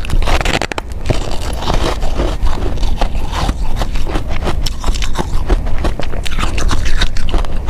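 Ice being bitten and chewed: a dense, irregular run of crunches and cracks with no pause.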